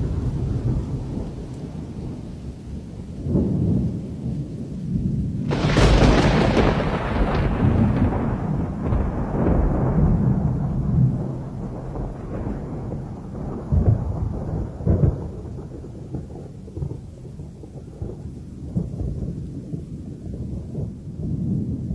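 Thunder during a hurricane's thunderstorm: a low, continuous rumble, then a sudden loud crack about five and a half seconds in that rolls away over several seconds, with a few smaller claps later.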